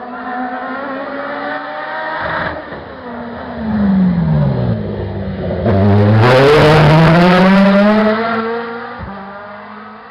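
Hillclimb race car's engine going by at racing speed: its note drops away for a few seconds, then climbs steadily as the car accelerates hard. It is loudest about six to eight seconds in, then fades away.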